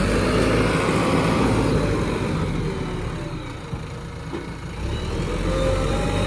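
JCB backhoe loader's diesel engine running under work, easing off in the middle and picking up again near the end.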